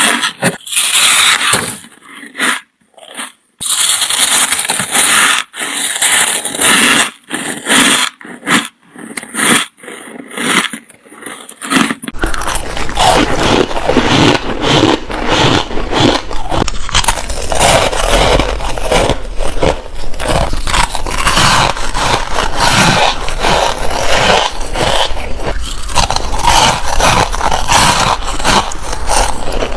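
A person biting and chewing ice close to the microphone: separate crunching bites with short pauses for about the first twelve seconds, then dense, nearly continuous crunching chewing.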